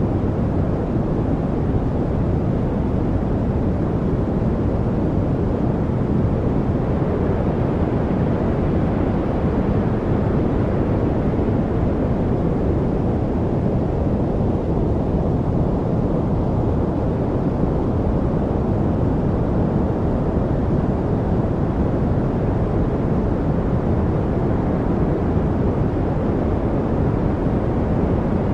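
Steady white-noise track for focus: an even, deep rushing hiss, heavier in the lows than true white noise, with a slow gentle swell and no birds, voices or beats.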